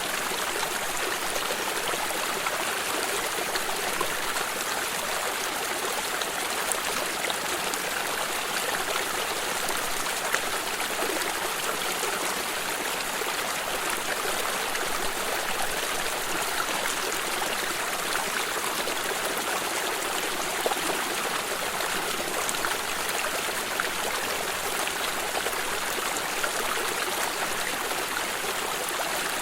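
A flowing water stream, running steadily with a continuous splashing, trickling rush.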